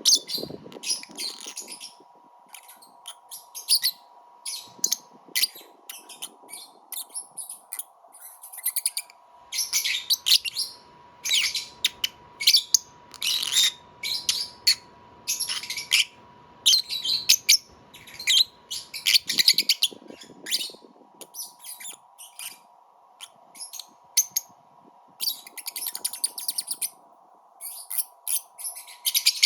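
Lovebird chirping in its sleep: short high-pitched chirps and twittering bursts at irregular intervals, over a faint steady hum.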